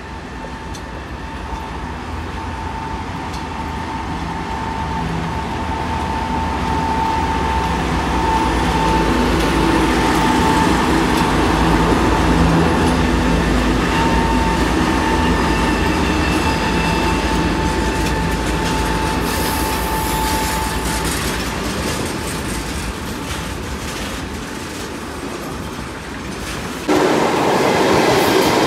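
Twin-section diesel locomotive hauling a freight train of tank cars, approaching and passing: the engine sound with a steady whine grows louder to a peak about ten to thirteen seconds in, then the tank cars roll by with wheel clatter and fade slowly. Near the end it cuts abruptly to the louder rush of an electric commuter train passing.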